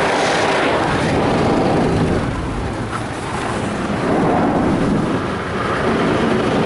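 Mark VII ChoiceWash XT car wash's spinning brushes scrubbing over the car's roof and sides, with water spray, heard from inside the car. A loud, steady wash noise that eases a little twice and swells back.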